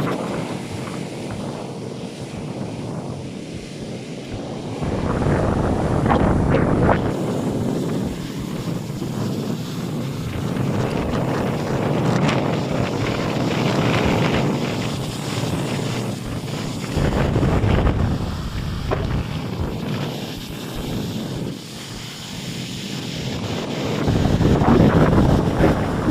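Stormy sea: heavy waves breaking and rushing in surges every few seconds, with strong wind buffeting the microphone.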